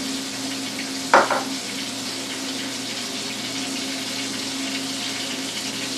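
Sliced onions sizzling steadily as they fry in a pan, with a single sharp knock of a utensil or dish about a second in.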